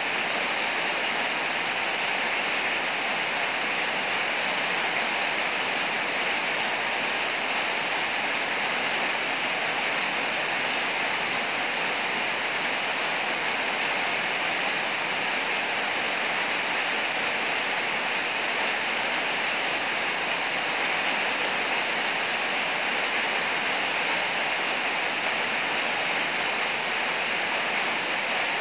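Heavy rain falling steadily, a dense even hiss without any thunder.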